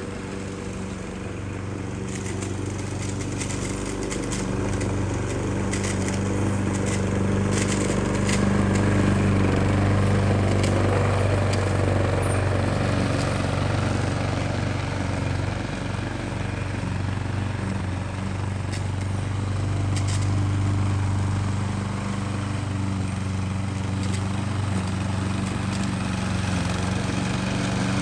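Small-engine grass cutter running steadily under load, its loudness swelling and easing a little. There are scattered sharp clicks about six to eight seconds in and again later.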